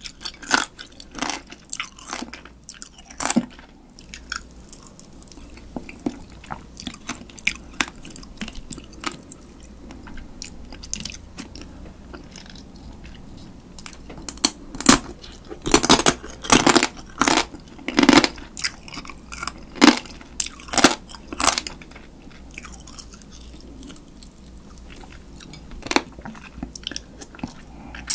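Close-miked chewing and biting of spicy marinated raw crab (yangnyeom-gejang), the crab shell crunching between the teeth. The crunches are scattered at first, then come thick and loud for several seconds past the middle.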